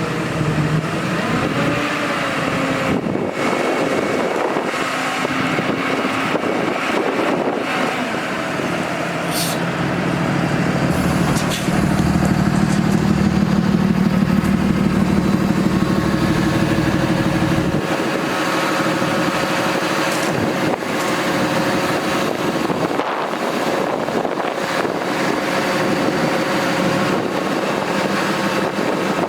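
The Cummins 6.7-litre ISB six-cylinder diesel of a Freightliner M2 dump truck running. About twelve seconds in, it turns louder and pulses for about six seconds, then drops back suddenly.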